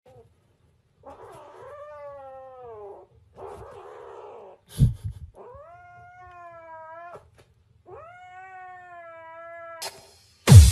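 Kitten giving four long, drawn-out meowing cries of one and a half to two seconds each; the second is rougher than the rest. A loud thump comes about halfway through, and music with a heavy beat starts just before the end.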